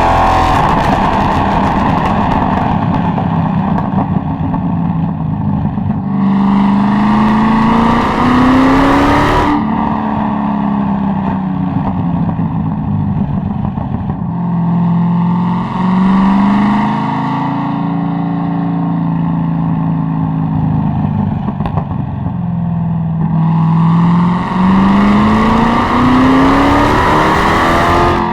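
Corvette C6 Z06's 7.0-litre LS7 V8 exhaust, pulling hard with the revs climbing, then dropping off. It pulls up again twice, each time with a sudden dip in pitch as it shifts up a gear before the revs rise again.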